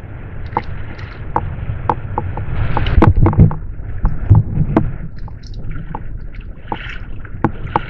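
Irregular knocks and clatter on a fishing kayak as a freshly caught barracuda and gear are handled, loudest in a cluster about three seconds in and again just after four seconds, over a steady low rumble.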